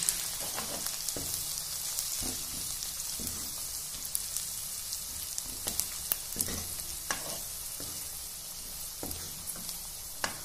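Onions and green chillies sizzling in hot mustard oil in a kadhai, with a metal ladle stirring turmeric in and now and then clicking and scraping against the pan.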